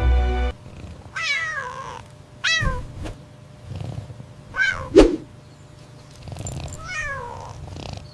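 A small animal's cries: four high calls, each falling in pitch, spread across several seconds, with a sharp knock about five seconds in.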